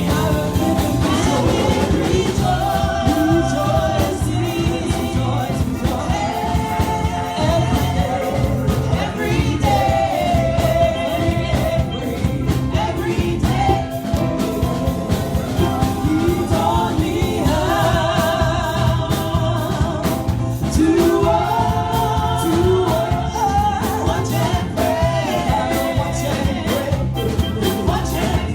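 Gospel song: voices singing held, wavering lines over a band with a steady beat.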